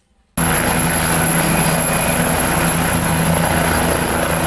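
Toy helicopter playing a loud, steady helicopter rotor sound with a fluttering beat and a thin high whine. It switches on suddenly about half a second in.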